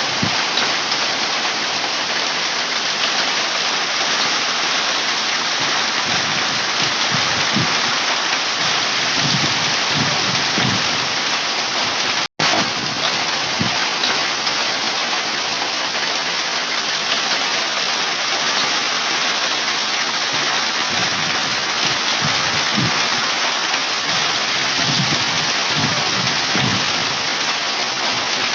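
Hail and heavy rain pelting down in a dense, steady clatter, with a brief break about twelve seconds in.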